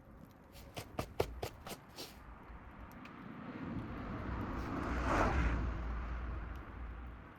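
Scrap-wood bonfire crackling with a quick run of sharp pops, then a rush of noise that swells and fades, loudest about five seconds in.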